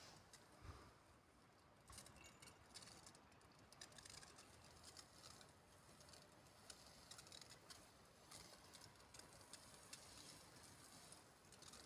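Near silence, with faint scattered ticks and rustles.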